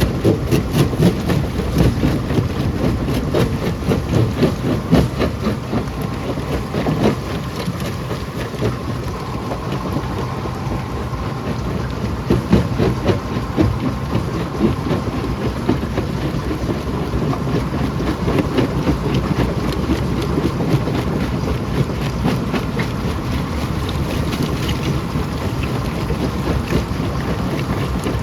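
Rock crusher running and breaking stone, a steady heavy machine noise with continual irregular cracking and knocking of rock.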